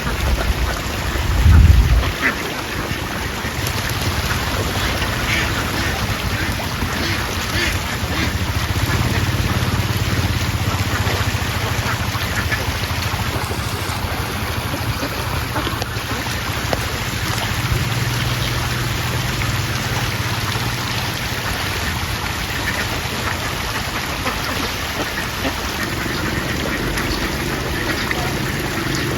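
A large flock of farm ducks quacking continuously in a dense clamour. A loud low thud comes about a second and a half in, and a steady low hum runs underneath from a few seconds in.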